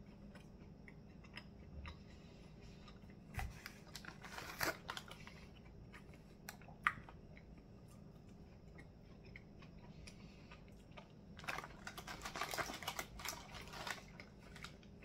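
Faint chewing of a breaded chicken nugget: small scattered mouth clicks and crunches, with a denser run of crackles near the end.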